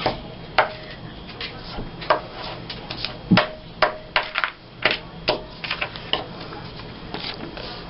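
Paper and craft supplies handled on a tabletop while pictures are glued into a scrapbook: a string of irregular sharp taps and clicks, a few ringing briefly.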